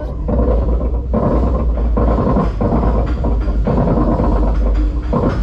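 Steel roller coaster train running on its track: a loud, steady low rumble with intermittent clacks.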